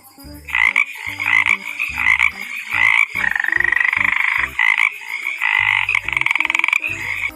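Frogs calling: repeated loud croaks and long rapid trills.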